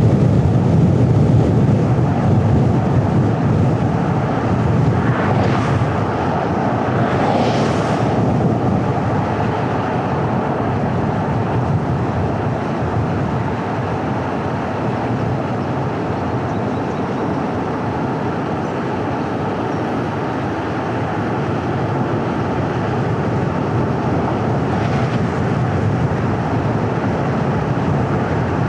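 Steady low road rumble of a car driving: tyre and engine noise heard from the moving car. A few brief hissing swells come about five and seven seconds in and again near the end.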